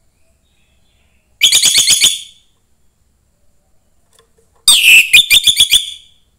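Young orange-headed thrush singing: two short phrases of rapid repeated notes, about ten a second. The first comes about a second and a half in; the second, near the end, is louder and opens with a slurred note.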